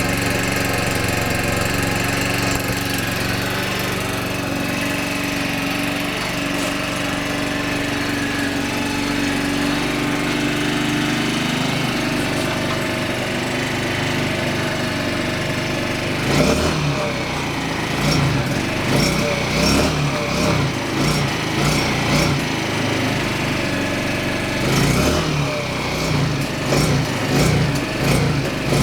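Suzuki Choinori scooter's small single-cylinder engine running in −10 °C cold just after a hard start: it idles steadily, then from a little past halfway is blipped with the throttle again and again, each blip a short rise and fall in revs.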